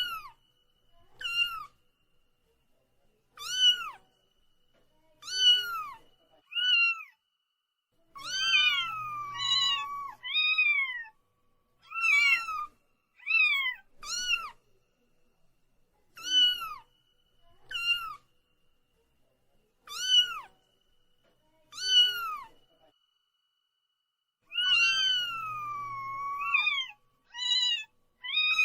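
A cat meowing again and again: short, high-pitched meows that fall in pitch, one every second or two, with two longer drawn-out meows about eight seconds in and again near the end.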